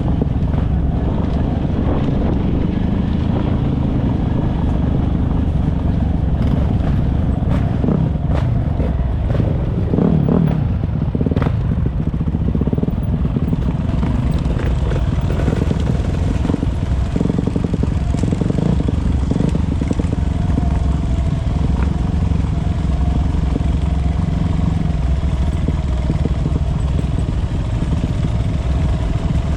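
Motocross dirt bikes' engines running, a dense, steady engine noise with a few sharp clicks and knocks early on and a held higher engine note in the second half.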